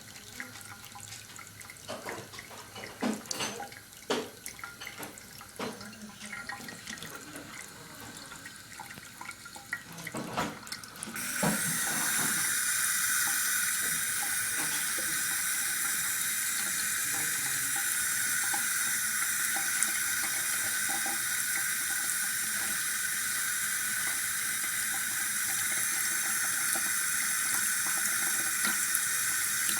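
A few scattered knocks and clicks, then a water faucet is turned on about a third of the way in and runs in a steady stream.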